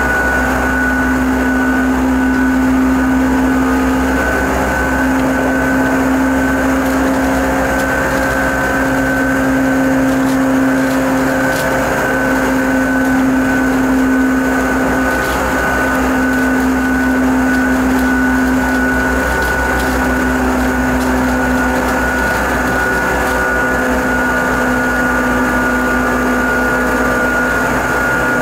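Seibu 10000 series limited express electric train running at a steady speed, heard from inside the passenger car: a steady rumble of wheels on rail with a held, unchanging whine from the drive.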